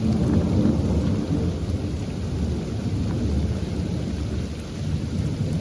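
Heavy rain pouring down, a dense steady rush with a strong low rumble.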